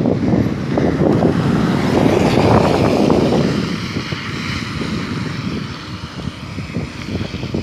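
Wind rushing over the microphone while riding along, over the low noise of a moving vehicle. It is loudest for the first three seconds or so, then eases off.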